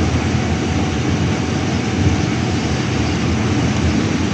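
City bus in motion heard from inside the passenger cabin: a steady low engine and road rumble.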